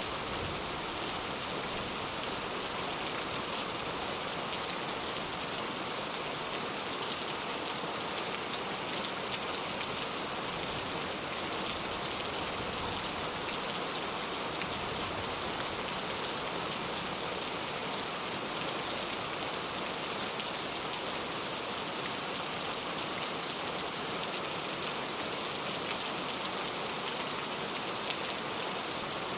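Steady rain falling: a dense, even patter of drops that holds at the same level throughout.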